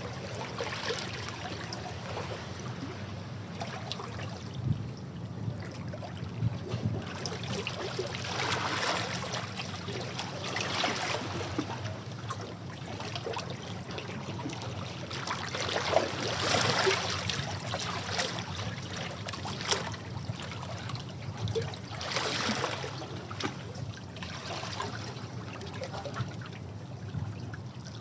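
Sea waves washing against rocks, swelling louder several times, with water trickling and splashing in between.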